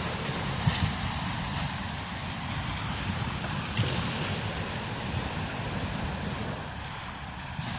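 Strong desert wind blowing in uneven gusts across open sand dunes, a steady hiss over a rough low rumble of wind buffeting the microphone.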